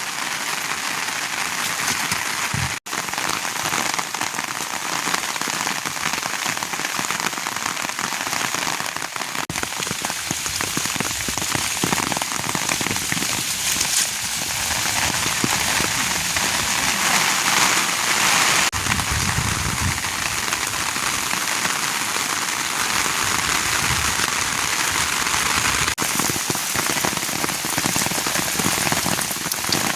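Steady rain falling, an even hiss throughout, with a brief dropout about three seconds in.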